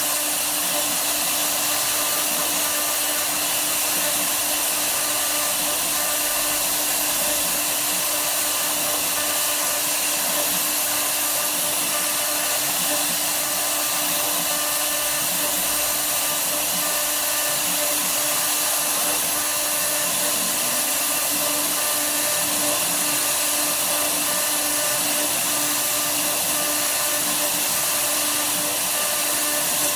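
Woodworking CNC router running steadily, with a constant whine under an even rushing noise.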